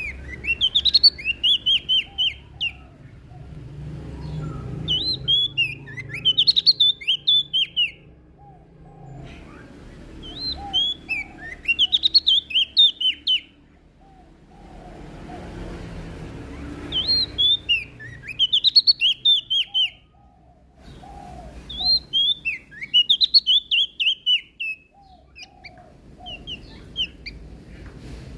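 Prenjak daun (leaf warbler) singing: bursts of rapid, high, sharply sliding notes, one phrase every five or six seconds, with softer, lower chirps in the pauses between phrases.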